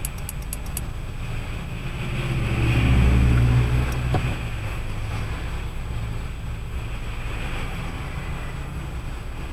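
Car driving on a wet road on Firestone Firehawk Sport 01 tyres, heard as a steady low rumble of tyre and road noise with engine hum. The rumble swells louder for a couple of seconds around three seconds in, with a rising engine note, then settles back.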